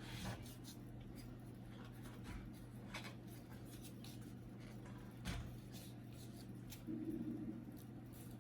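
Faint clicks and scraping of plastic as a laser printer's casing cover is pulled loose by hand, with a single light knock about five seconds in.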